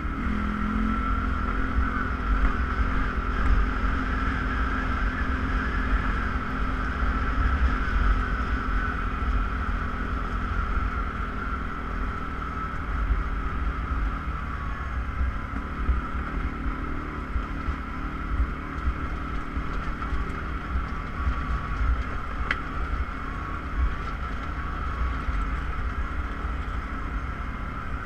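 ATV engine running steadily while riding, with wind rumbling on the microphone.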